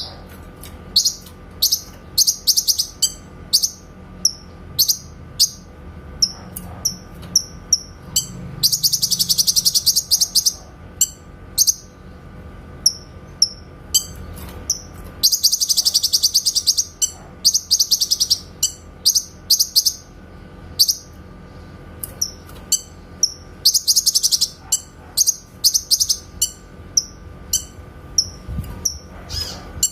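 Cucak kinoy singing: sharp, high single notes repeated about once or twice a second, broken by several dense, rapid trills of about two seconds each, the bird's clear 'tembakan' (shooting) phrases. A faint steady hum runs underneath.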